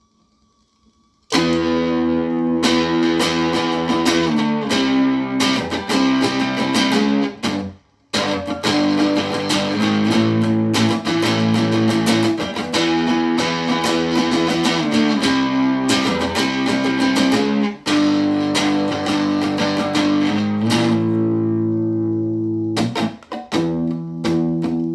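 Guitar played through effects, strumming chords as an instrumental passage between songs, starting after about a second of near silence. The strumming breaks off briefly about eight seconds in.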